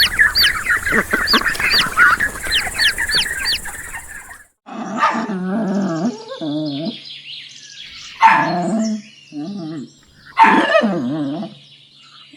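Birds chirping in rapid, repeated high notes, cut off sharply a little over four seconds in. Then a dog barks repeatedly, each bark drawn out and a second or more apart.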